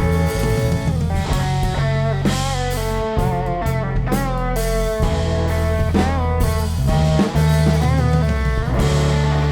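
Live rock band in an instrumental break: a lead guitar plays a melodic line with bent and wavering notes over bass and drums.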